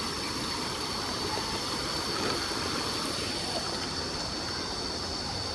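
Stream water rushing steadily over rocks, with a steady high-pitched tone above it.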